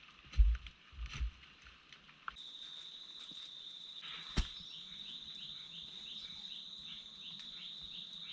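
Two dull thumps, then from about two seconds in a steady high drone overlaid by a long run of short falling chirps, about three a second, which is taken for a squirrel calling; one sharp knock midway.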